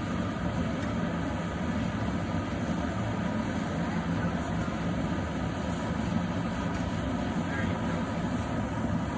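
Steady roar of a running forge, with no hammer blows.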